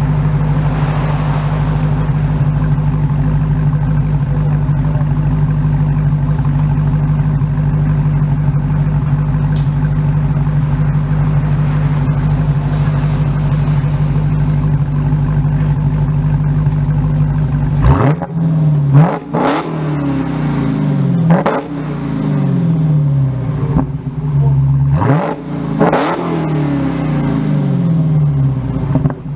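Dodge Challenger SRT Hellcat's supercharged 6.2-litre Hemi V8 idling steadily through its exhaust, then revved about five times in quick free-revs, each rising sharply and dropping back to idle, before settling back to idle near the end.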